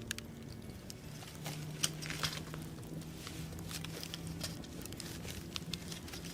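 Wood fire crackling, with irregular sharp pops and snaps over soft, slow background music holding low notes.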